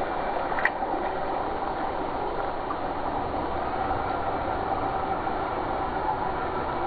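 Electric RC scale crawler truck driving, its motor and gears giving a steady whine over an even rushing noise, with one short click about a second in.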